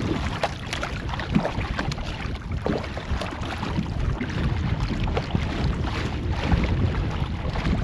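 Water splashing and sloshing around a kayak being paddled, with wind rumbling on the microphone.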